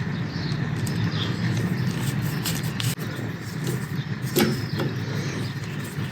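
A steady low mechanical hum with scattered small clicks and knocks, the sharpest about four and a half seconds in.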